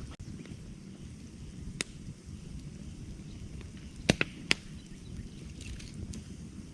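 Wood campfire crackling: a steady low rumble from the flames, with sharp pops from the burning wood, one about two seconds in and a cluster of three loud pops around four seconds in.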